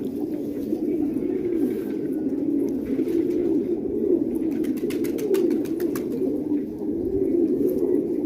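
Many domestic pigeons cooing together in a steady, overlapping chorus. A quick run of sharp clicks comes about five to six seconds in.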